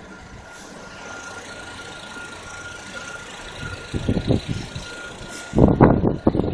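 A motor vehicle running, with a steady thin whine underneath. Loud, irregular rumbling bursts come in about four seconds in and again near the end.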